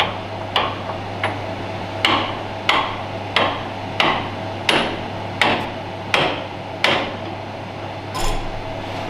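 Repeated hammer blows tapping a part into place on a tractor clutch assembly, an even pace of about one strike every two-thirds of a second with a brief pause near the end. A steady low hum runs underneath.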